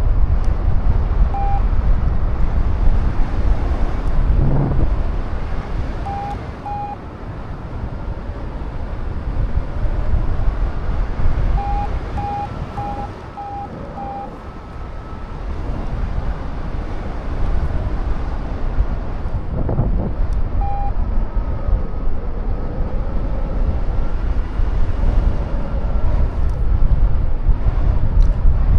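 Strong wind buffeting the microphone, rising and easing in gusts, with a paragliding variometer giving short high beeps now and then, including a quick run of five about twelve seconds in that signals the glider climbing in lift.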